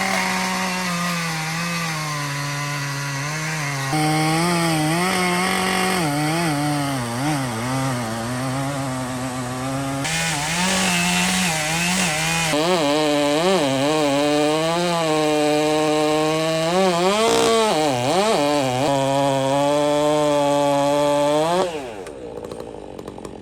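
Large chainsaw cutting through wood at full throttle, its engine note repeatedly dipping and recovering as the bar bogs under load. Near the end the engine winds down and the sound drops away.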